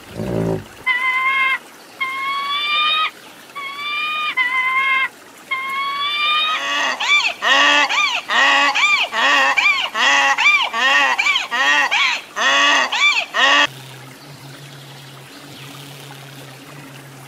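Donkeys braying: a few drawn-out, slightly rising squeaky notes build into a rhythmic run of hee-haws, about one and a half a second, that stops abruptly about two-thirds of the way through. A low animal call is just ending at the very start, and the brays are followed by a faint low steady hum.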